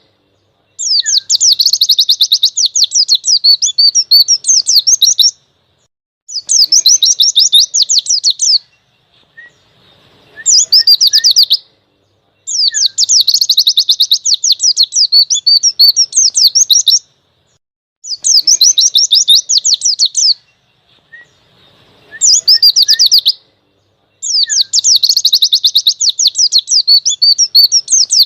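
A pleci (white-eye) sings its loud, persistent 'ngalas' song in rapid, high twittering phrases of two to five seconds each, with short pauses of about a second between them.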